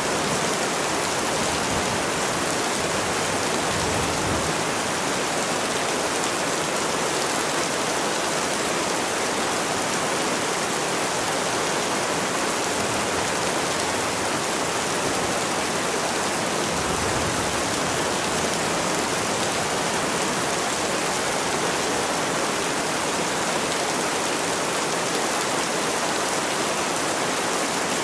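Steady rain falling in a continuous, even hiss, with two brief low rumbles, one about four seconds in and one a little past the middle.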